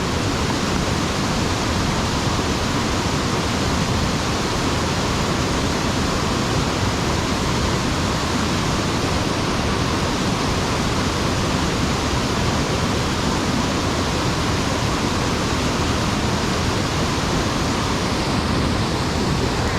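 Steady, loud rush of a mountain stream's water pouring over a sabo (erosion-control) dam, even and unbroken.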